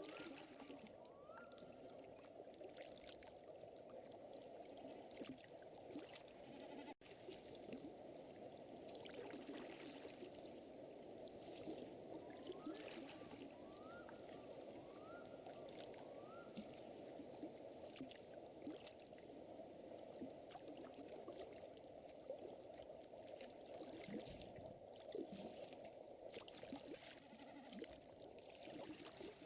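Faint outdoor ambience of a crackling wood fire, its small sharp pops scattered throughout, over a steady soft wash of moving air or water. Twice an animal gives a short series of quick rising chirps: a couple near the start and about five in a row near the middle.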